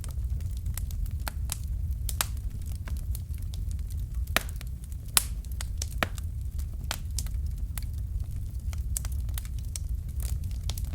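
Fireplace fire crackling: irregular sharp pops and snaps over a low, steady rumble, the loudest pop about five seconds in.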